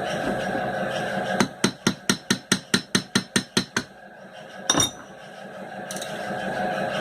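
A hammer tapping on metal machine parts: a quick run of about a dozen sharp strikes, about five a second, then one more knock a second later.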